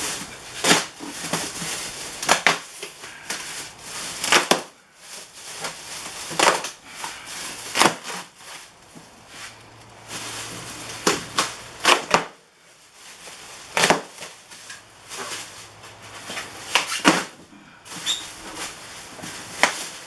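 Packaging being wrestled off a heavy benchtop planer: irregular crackling, rustling and sharp knocks of cardboard and plastic as the machine is worked out of its box.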